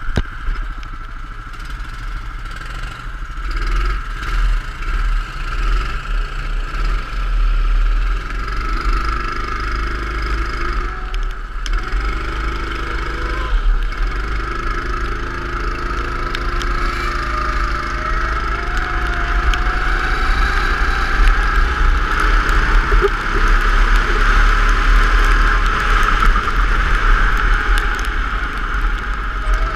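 Go-kart engine running continuously, its pitch drifting up and down as it is revved, over a strong low rumble.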